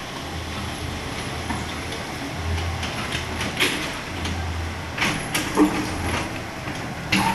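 Kobelco SK75 excavator running, with a steady low engine hum that swells and eases every half second or so. Several sharp clanks come over it, the loudest about three and a half, five and seven seconds in.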